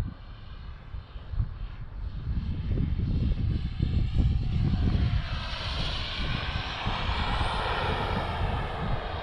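Turbine engine of an RC Avanti model jet in flight, its hissing whine growing louder a few seconds in as the jet passes close, with the pitch bands swaying as it goes by. Gusty wind rumbles on the microphone underneath.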